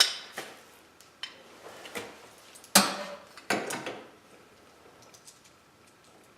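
Metal lock parts and hand tools clinking and clattering as a lock is fitted to a steel garage door: a few separate sharp clicks, the loudest a little under three seconds in, then only faint ticks.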